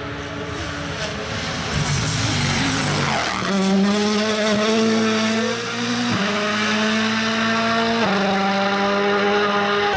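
Rally car engine running hard at high revs, holding a steady pitch with two brief breaks in the note, about six and eight seconds in.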